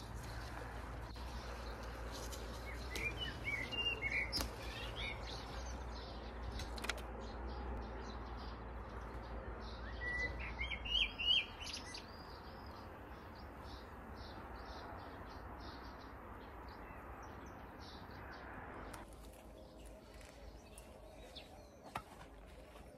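Small birds chirping in short bursts over a steady outdoor hiss, with a single sharp knock near the end.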